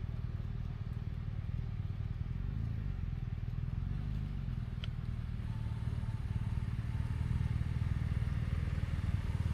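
Motorcycle engine running steadily at cruising speed, a low even hum, with a single sharp click about five seconds in.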